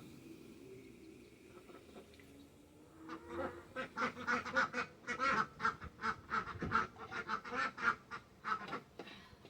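Birds calling: a quiet low murmur, then from about three seconds in a loud, rapid run of short, repeated calls that stops just before the end.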